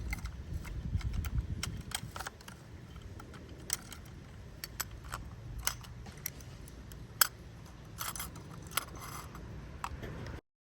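Toy garbage truck being handled, giving scattered sharp clicks and light plastic rattles over a low rumble. The sound cuts off abruptly near the end.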